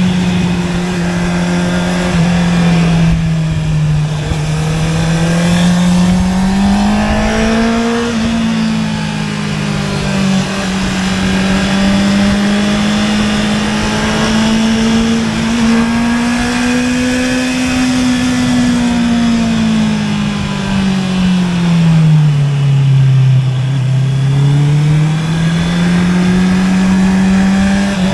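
Honda CB650R's inline-four engine running through an Akrapovic exhaust. Its note rises and falls slowly several times as the engine speed changes, with no sharp revs or gaps.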